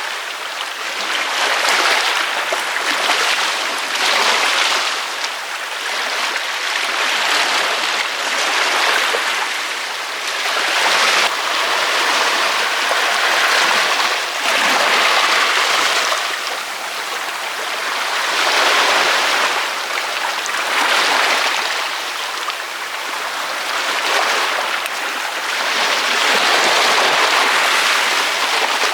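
Ocean surf: waves breaking and washing up the beach in a continuous hissing rush that swells and eases every two to three seconds, with little deep rumble.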